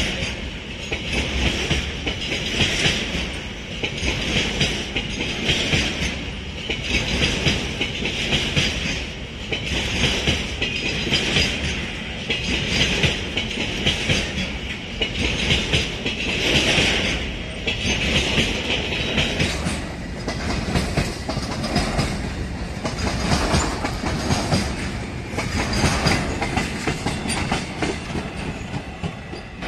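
Train wagons of a BCACBM car carrier rolling past, wheels clicking over the rail joints, with a high-pitched wheel noise that swells and fades about every second and a half. The high noise eases about two-thirds through, and the sound dies away near the end as the last vehicle, the brake van, goes by.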